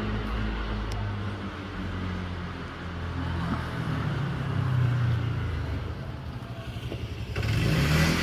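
Street traffic: a motor vehicle's engine hums steadily, and about seven seconds in a louder rush of engine and road noise comes in as a vehicle passes or pulls away.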